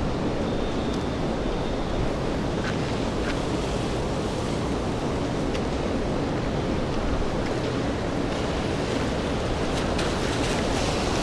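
Steady rain on a wet city street: an even rushing hiss with a few faint ticks of drops.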